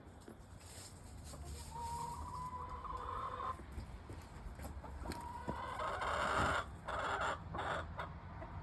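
Hens calling: two long, drawn-out calls, the second turning harsher and louder, with short clucks near the end.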